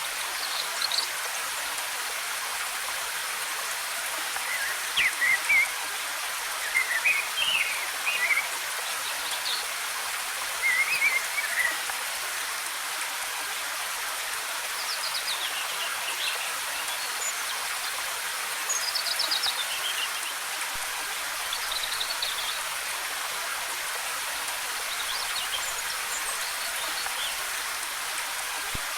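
Steady rush of cascading waterfall water, with songbirds chirping over it in short twittering phrases every couple of seconds.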